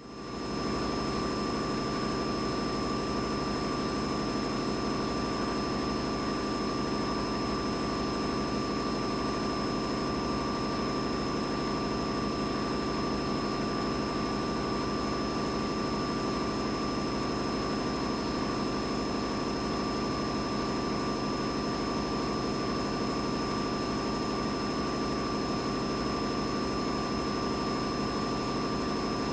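Boiler room ambience: a steady, unchanging mechanical drone with a deep hum, overlaid by two thin constant whines, one in the middle range and one high. It fades up within the first second and then holds level throughout.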